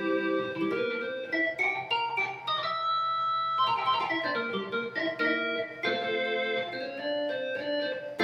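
Yamaha YC-20 combo organ playing a melody over held chords, one sustained note after another changing about every half second.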